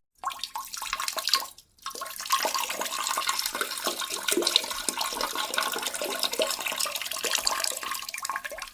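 Running water with small splashes, breaking off briefly near two seconds in.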